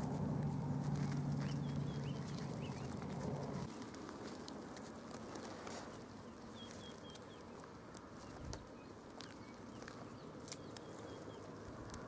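Outdoor ambience: small birds chirping in short runs of quick notes, with scattered faint clicks. A low hum underneath cuts off about four seconds in.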